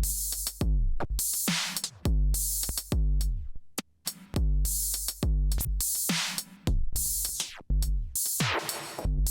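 Electronic funk groove played on a drum machine, sampler and analogue synthesizer: a steady beat with repeated synth notes that glide down in pitch.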